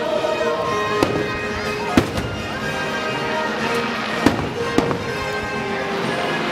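Aerial fireworks shells bursting, a sharp bang every second or so, with the loudest about two seconds in and another right at the end. Music plays underneath throughout.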